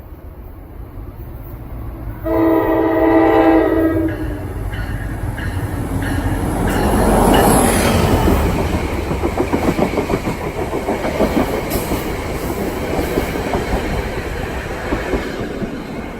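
NJ Transit commuter train sounding one chord-like horn blast of under two seconds, about two seconds in. It then rolls past with a heavy rumble that peaks near the middle and a rapid clickety-clack of wheels over the rail joints.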